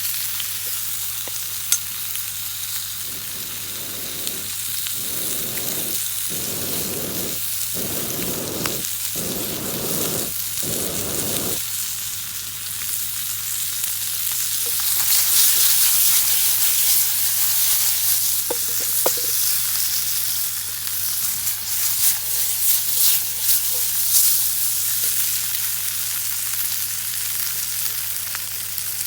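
Bacon and garlic sizzling in hot oil in a deep frying pan over a campfire, with a run of about six stirring strokes in the first half. The sizzle grows louder about halfway through, with scattered pops.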